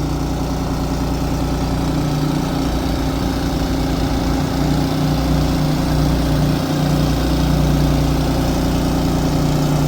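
1988 Amertek 4x4 fire truck's engine idling steadily.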